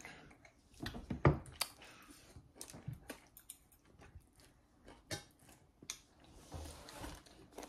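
A small child eating rice noodles with a fork: faint chewing with scattered small clicks and taps, the loudest about a second in.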